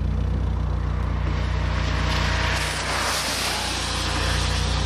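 Car engine running steadily at a low hum. A rushing noise swells and fades in the middle.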